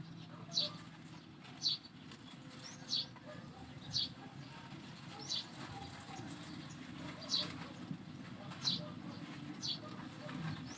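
A bird chirping: short, high single chirps repeated about once every second or so, eight in all, with a longer gap around the middle, over a faint steady low hum.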